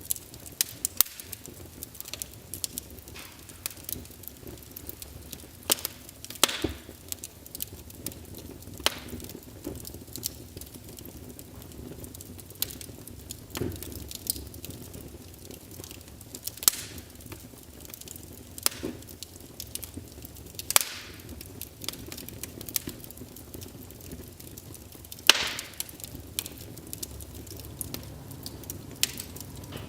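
Wood fire burning in a fireplace: irregular crackles and sharp pops over a steady low hiss, with a few louder snaps scattered through.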